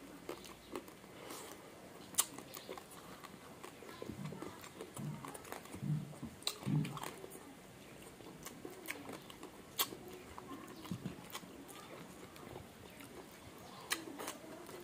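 Close-up eating sounds: chewing and crunching of crispy fried pork and rice eaten by hand, with scattered sharp crunches and a few low mouth sounds around the middle.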